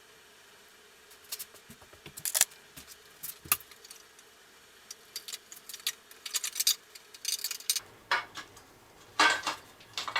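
Irregular metallic clinks and clicks of hand tools and bolts being handled while the valve cover's bolts are undone, with longer rattling clusters near the end.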